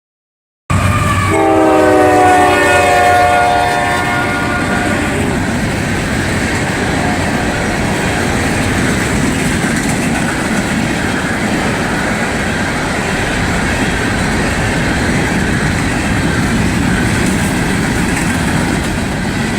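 Freight train locomotive sounding its multi-note air horn for about four seconds, then the steady noise of the train running past on the rails.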